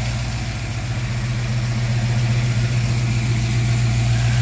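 Ford Fox-body Mustang V8 idling steadily with one cylinder not firing. The exhaust temperatures point the dead cylinder out as number five.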